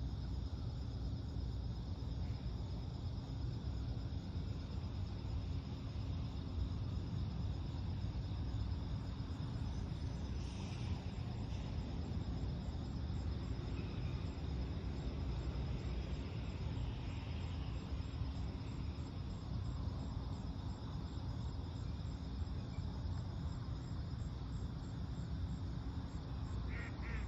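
Crickets chirring steadily in a high, pulsing trill over a constant low rumble, with a few faint bird calls about midway. Duck quacks start right at the end.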